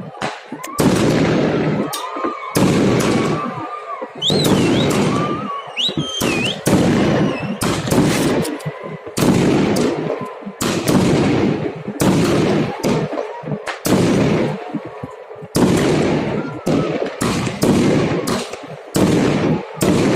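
Fireworks display: aerial shells bursting in a steady run of loud bangs, about one a second, each trailing off in a rolling echo.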